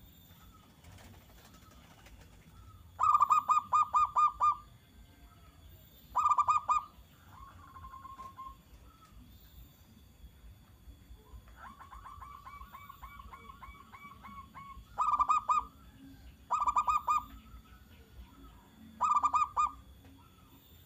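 Zebra dove (perkutut) singing: five loud bursts of rapid, evenly pulsed cooing notes, the first and longest about three seconds in, with softer trilled runs in between.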